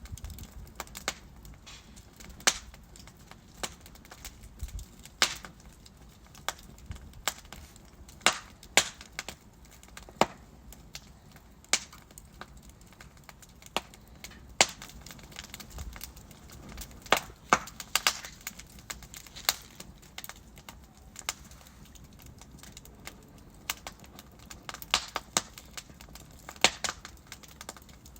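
Wood fire crackling in a fireplace: burning logs pop and snap at irregular intervals over a soft steady hiss.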